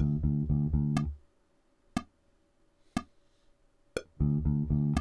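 Electric bass guitar playing a short run of quickly repeated low notes over a click track that ticks once a second. The bass stops about a second in while the clicks go on, and comes back with the same kind of run near the end.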